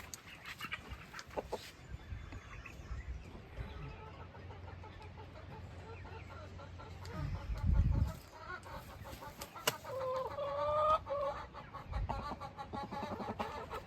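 Chickens clucking, with a longer drawn-out call about ten seconds in. A low thump a little past the middle is the loudest sound.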